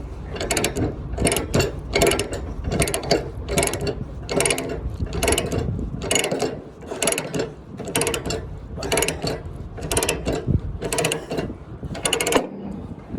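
Chain load binder being ratcheted tight on a flatbed's tie-down chain: a steady run of clicking ratchet strokes, a little under two a second, that stops near the end.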